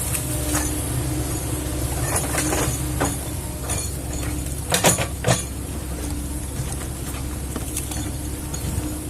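Kobelco excavator's diesel engine running steadily under work, with a few sharp knocks and a cluster of three louder knocks about five seconds in.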